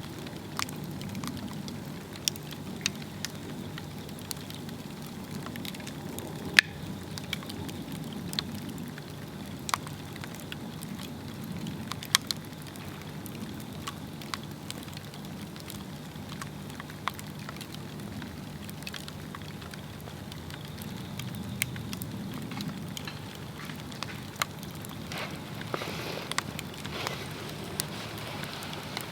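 Swedish torch log fire burning steadily with a low flame rumble and irregular sharp crackles and pops of the wood, one louder pop about six seconds in.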